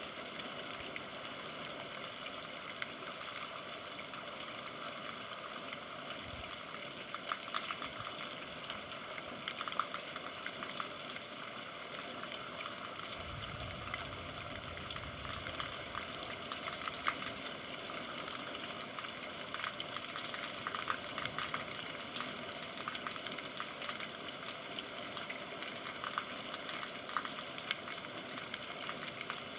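Steady rain falling, a dense hiss with scattered louder drop ticks. A brief low rumble comes in about thirteen seconds in and lasts about three seconds.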